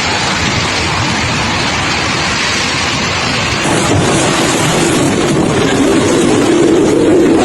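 Heavy rain pouring steadily in a storm, with a deeper rumble coming in about halfway.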